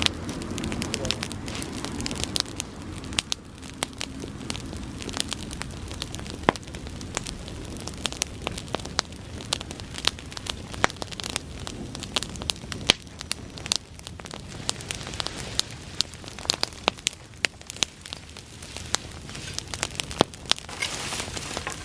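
Bonfire of dried summer grass burning, with frequent, irregular sharp crackles and pops over a steady hiss.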